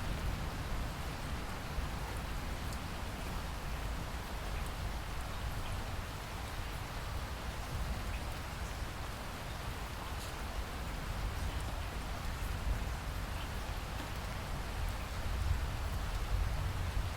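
Steady rain falling, an even hiss with a deep low rumble underneath and scattered sharp drop ticks.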